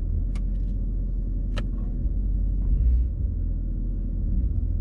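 Low steady rumble of a moving car heard from inside the cabin, with two sharp clicks about a second apart in the first two seconds and a brief louder bump a little past the middle.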